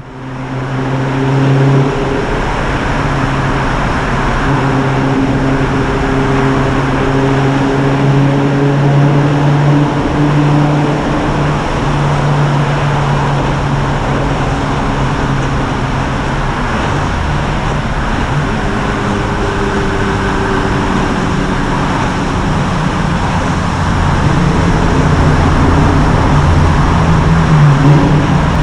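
1995 Ford Probe's 2.5-litre KL-DE V6 with a modified exhaust running steadily at cruising revs, the exhaust note holding a fairly even pitch. The pitch drops lower for a while near the end, then climbs as the engine pulls.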